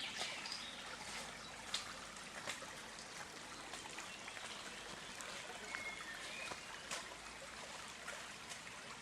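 Running water, like a small stream, trickling steadily, with a few short high bird chirps in the second half.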